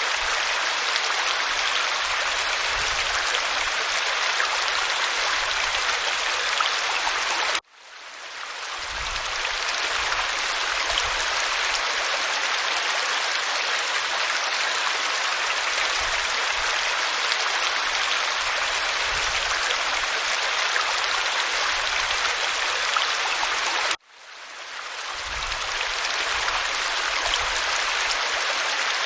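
Waterfall splashing onto rock in a steady hissing rush. It cuts out abruptly twice, about 7.5 and 24 seconds in, and fades back up over a second or two each time, as at the seams of a looped recording.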